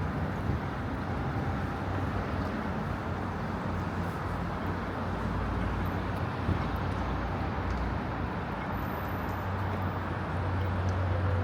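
City street traffic noise with a steady low engine hum that grows louder near the end.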